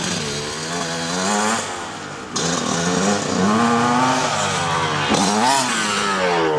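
Mini motocross bike engines revving, the pitch climbing and dropping again and again as the riders accelerate, shift and back off. The sound gets suddenly louder about two and a half seconds in.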